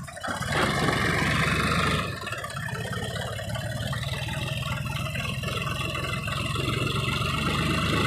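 Diesel tractor engines running hard under load in a tractor tug-of-war. The sound jumps up about half a second in, eases slightly at about two seconds, then builds again toward the end.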